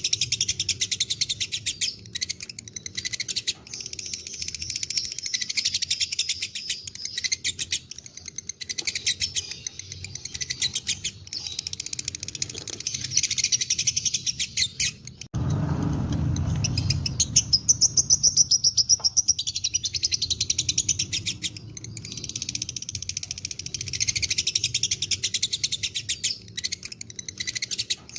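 Lovebird chattering in a long, fast run of sharp repeated chirps (the 'ngekek' song). About halfway through there is a sudden break with a low rumble for a few seconds, then the rapid chirping resumes.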